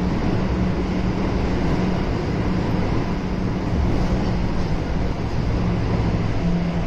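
Kintetsu 7000 series electric train running between stations, heard from inside the car: a steady rumble of wheels and running gear with a constant low hum.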